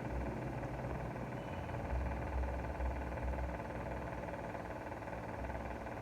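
A vehicle engine running steadily: a low rumble with an even hum that holds the same pitch throughout.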